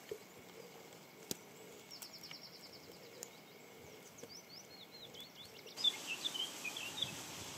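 Quiet outdoor ambience with small songbirds giving high, rapid chirps and short trills. A single sharp click comes just over a second in. About six seconds in the background hiss steps up and the chirps get louder.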